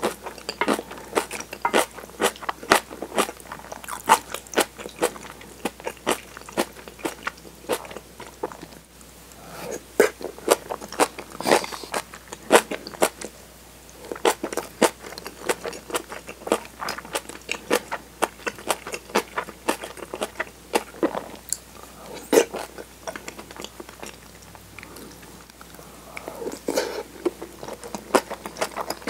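Close-miked eating: irregular, sticky mouth clicks and crunchy chewing of kimchi and tofu, with a brief pause about a third of the way in.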